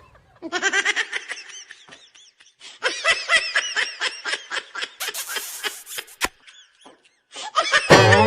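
Two bouts of laughter in quick, pulsing ha-ha bursts with wavering pitch. A brief hiss comes about five seconds in, and music with a beat starts near the end.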